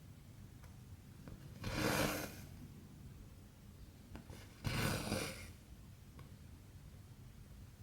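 Cotton embroidery thread drawn through cross-stitch fabric twice, about three seconds apart, each pull a rasping swish of under a second. Faint ticks from the needle piercing the cloth come in between.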